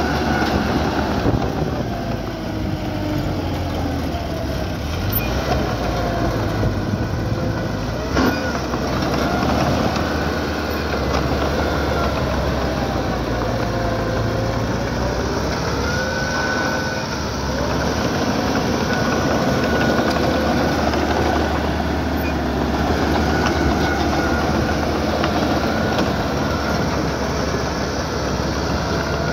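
Small crawler bulldozer's diesel engine running under load while its steel tracks squeal and clank, with wavering squeals that rise and fall.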